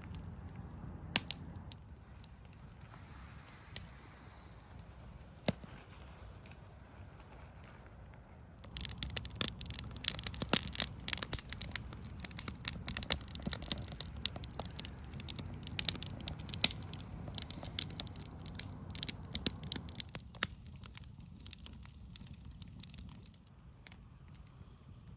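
Campfire crackling and popping. There are a few sharp snaps at first, then a dense run of crackles from about nine seconds in, which thins out again about twenty seconds in.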